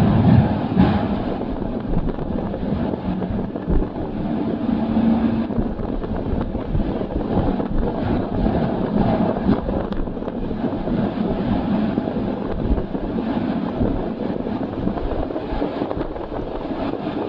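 Passenger train running steadily, a constant low noise of the moving train mixed with wind buffeting the microphone.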